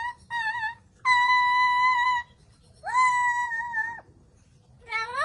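Pet parrot singing on cue: a short wavering note, then two long held notes at about the same pitch with a pause between, and a third that slides up into a held note near the end.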